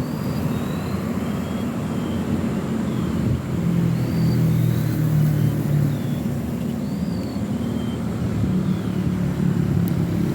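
Road traffic: motor-vehicle engines running close by over a steady rumble of road and wind noise, swelling for a few seconds from about a third of the way in and again near the end. Faint short high chirps recur throughout.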